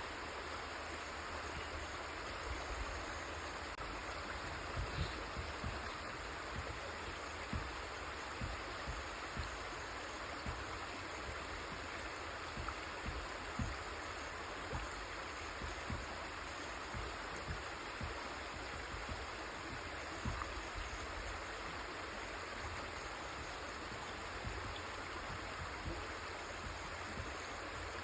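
River water flowing with a steady rushing, broken by frequent short, irregular low thumps.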